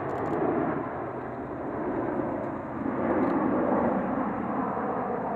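Jet aircraft noise, a steady roar that swells slightly about three seconds in.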